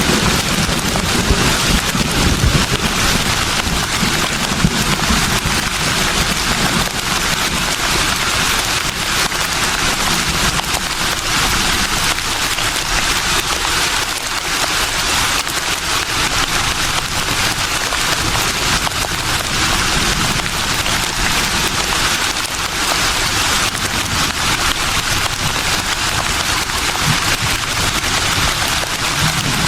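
Breeze rustling leaves in a steady, even hiss, with a low gust rumble in the first couple of seconds and again near the end.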